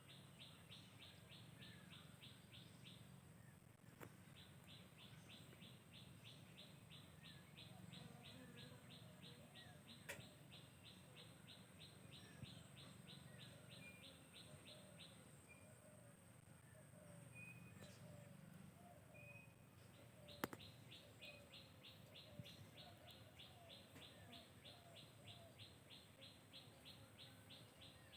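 Faint outdoor ambience of birds chirping, with a rapid pulsed high trill in long runs and a steady thin high whine. There are two sharp clicks, about ten seconds in and about twenty seconds in; the second is the loudest sound.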